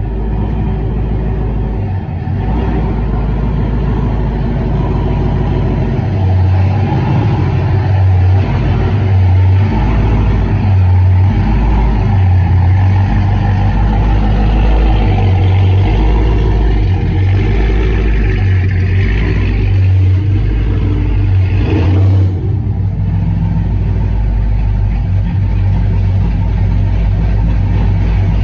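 A truck engine running after a cold start, with a choppy, uneven low rumble and its pitch rising and falling at times.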